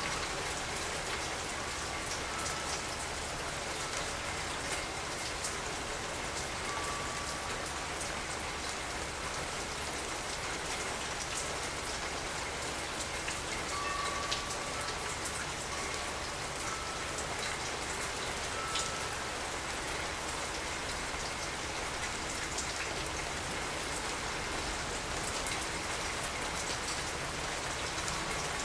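Steady rain falling, with many separate drops ticking on surfaces through an even hiss.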